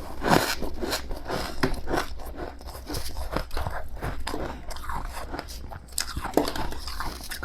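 Freezer frost (snow-like ice from a fridge) being bitten and chewed close to the microphone: a quick, irregular run of crunches, several a second.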